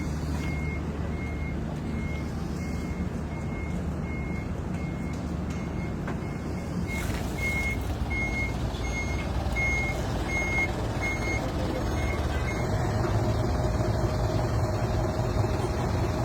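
Vehicle reversing alarm beeping steadily, about one and a half beeps a second, over a heavy engine running. A second, higher-pitched beep joins for a few seconds; the beeping stops about twelve seconds in and the engine grows louder.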